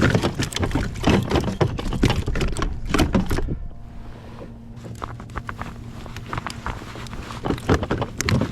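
Irregular knocks, clicks and rattles from handling a freshly caught hybrid striped bass and the treble hooks of a crankbait in a kayak. They are dense for the first few seconds, ease off, then pick up again near the end.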